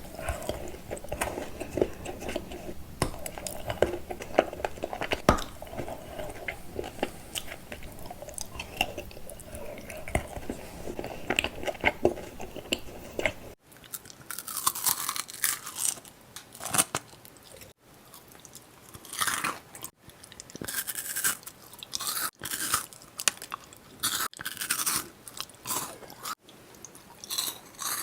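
Close-up chewing of chocolate candy: steady wet mouth sounds with many small clicks. About halfway through it changes abruptly to separate crisp, crunchy bites with short pauses between them.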